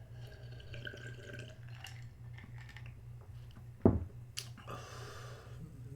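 A single loud knock about four seconds in, then a click and about a second of hissing, over a steady low hum.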